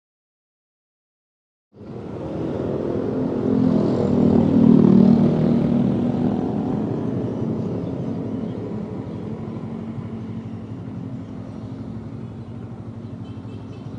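Silence for nearly two seconds, then a Honda CB150R's single-cylinder engine running at low road speed amid street traffic. The sound swells to its loudest about three to five seconds in, then settles to a steady hum.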